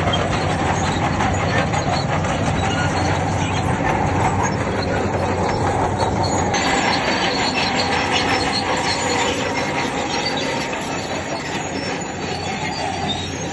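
Crawler bulldozer working: its diesel engine runs steadily while the steel tracks squeal and clank.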